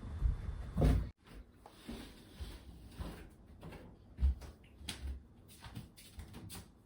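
Household handling noises: scattered small clicks and a few low thuds, like doors and cupboards being opened and closed, with an abrupt cut about a second in.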